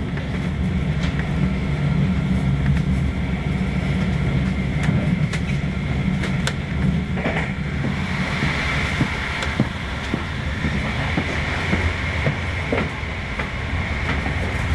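Passenger train running at speed, heard from inside the carriage: a steady low rumble of wheels on the track with scattered sharp clicks and knocks, and a higher hiss that grows about halfway through.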